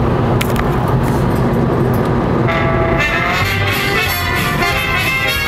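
Low road rumble inside a moving car, with music starting about two and a half seconds in and then playing over it.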